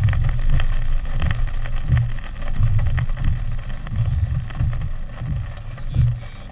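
Hurricane wind gusting and buffeting the microphone in an irregular low rumble, over a steady hiss.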